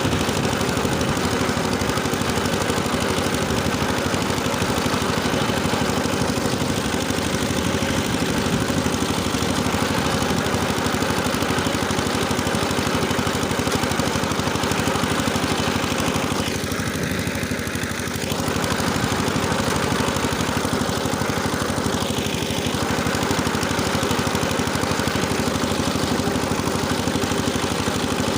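Engine running steadily while driving a rotary tiller through the soil, easing slightly for a moment past the middle.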